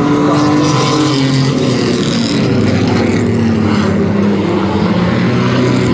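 Racing trucks' engines running at speed on an oval track, several engine notes overlapping and dipping and rising in pitch as the trucks lap.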